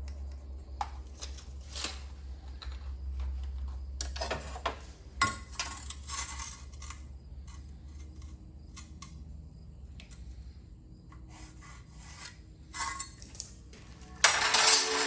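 Scattered scrapes, clicks and clinks of stone veneer pieces and tools being handled, at irregular moments over a low steady hum. Music comes in near the end.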